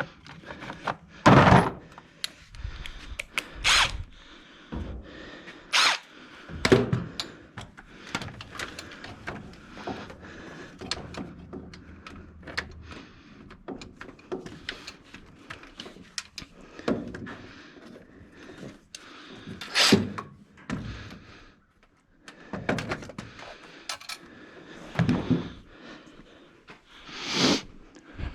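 Tool work on an engine: irregular metallic clicks, clanks and knocks, with several louder short bursts spread through.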